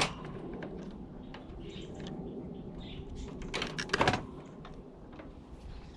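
Parts of a tower heater being handled during a teardown: a sharp click at the start, then a quick run of knocks and scraping clatter about three and a half seconds in.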